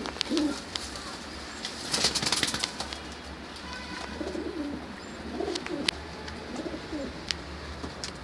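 Homing pigeons cooing in low, repeated calls, with a brief flurry of wing flaps about two seconds in and a few sharp clicks.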